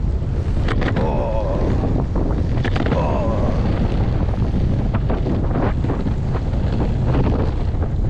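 Strong wind buffeting the microphone while riding at about 15 to 20 miles an hour: a steady low rumble with short crackles throughout.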